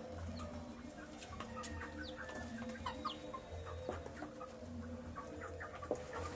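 Young chicks peeping as they eat: many short, high chirps in quick succession, mixed with scattered sharp clicks, over a low hum.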